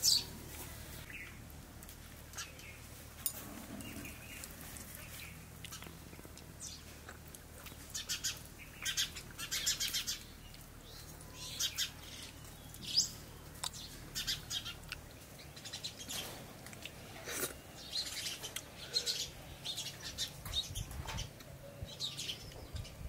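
Small birds chirping and twittering in short, scattered calls, some sliding up or down in pitch.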